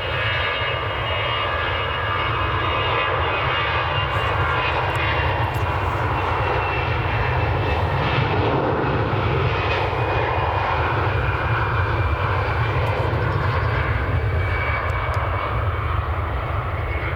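Twin jet engines of an Airbus A320 at departure power, a steady loud roar. A high whine fades over the first few seconds.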